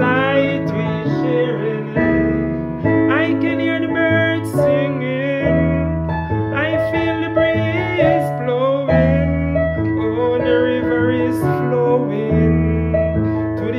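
Keyboard playing sustained chords that change every two to three seconds, with a singing voice wavering over them in a slow chant.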